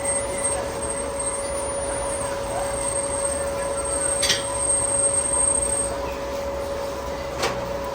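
Heavy boring machine running while machining a steel pipe: a steady mechanical hum with a constant whine. A brief high scrape comes about halfway and a sharp click near the end.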